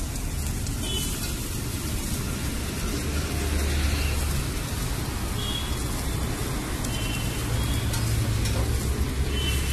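Sliced onions and green chillies sizzling on a large flat tawa griddle, a steady frying hiss, with a low steady hum underneath.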